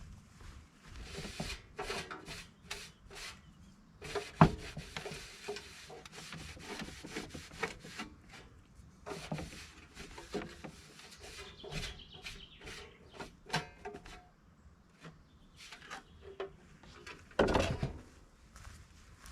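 Hand work on a wooden birdhouse: irregular rubbing and rasping strokes on wood, with one sharp knock about four seconds in and a longer, louder stroke near the end.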